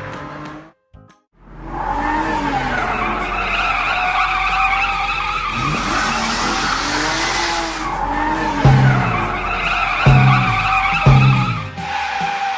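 Cartoon racing-car sound effects: car engines revving in repeated rising-and-falling swells and tyres squealing, with background music. The revs come in three loud swells near the end.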